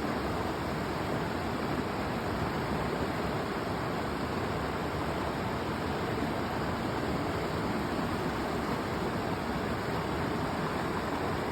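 River water flowing steadily, an even continuous rush.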